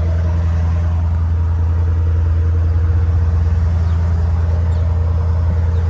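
Mercedes-AMG GLE 63 S twin-turbo V8 idling steadily.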